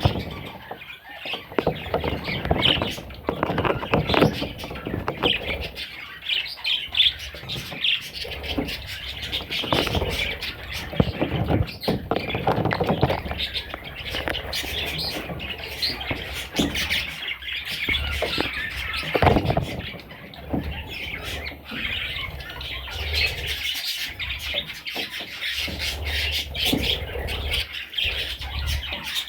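Budgerigar chicks squawking and chirping, many rapid overlapping calls without a break, with scattered low knocks.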